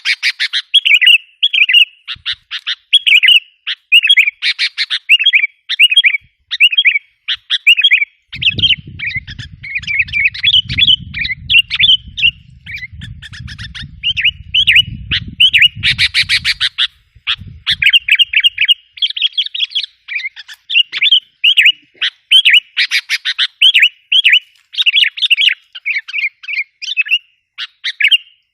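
Sooty-headed bulbuls (kutilang) calling in a dense, rapid stream of chirping, chattering notes, as used in a lure recording to provoke wild kutilang. A low rumble sits under the calls from about a third of the way in until past the middle.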